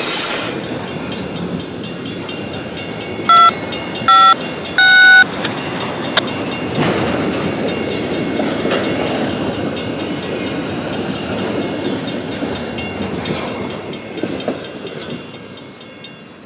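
Freight train cars rolling past on the rails, the wheel noise fading steadily as the end of the train moves away. Three short, loud beeps cut in a few seconds in, the third the longest.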